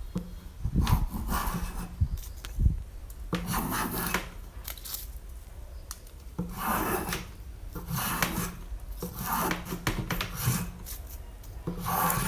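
A hand tool worked across wood in repeated rasping strokes, about eight of them, each lasting under a second.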